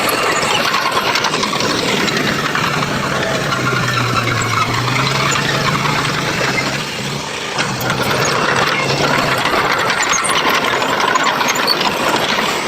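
Heavy construction machinery engine running, with a rattling, noisy sound and a low steady hum that comes in for a few seconds in the middle.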